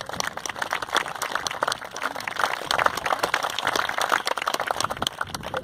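Audience applauding: a dense patter of many hands clapping that fades near the end.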